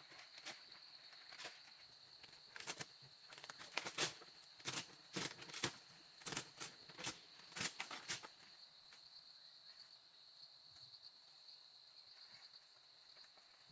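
Insects trilling steadily at a high pitch, with a run of irregular sharp knocks over the first eight seconds that then stop.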